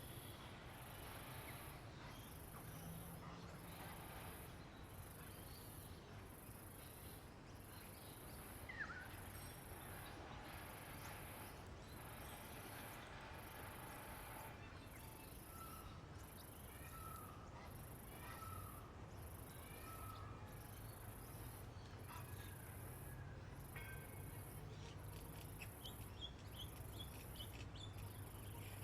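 Faint outdoor birdsong: scattered calls, a short row of repeated notes midway and a cluster of high chirps near the end, over a high insect buzz that pulses evenly about every second and a half.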